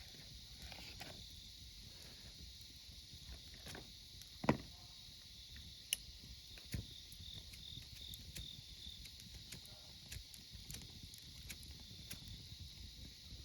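Wood campfire crackling with scattered small snaps, a sharp pop about four and a half seconds in and two smaller pops a little later. Autumn insects chirp steadily behind it in a high, pulsing trill.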